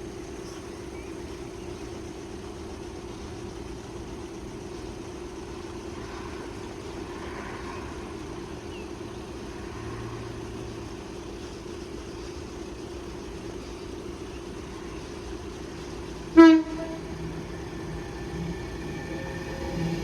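An approaching Avanti West Coast Pendolino gives one short, loud toot on its horn about sixteen seconds in, over a steady low hum. Near the end the train's approach grows steadily louder.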